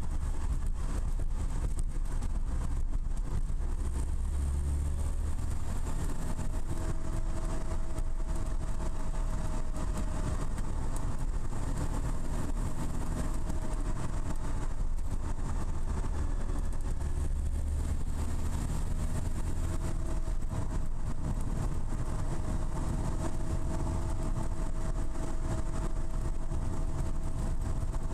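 Lotus Elise S1's Rover K-series four-cylinder engine running steadily while the car drives, with tyre and wind noise, heard from inside the small open cabin.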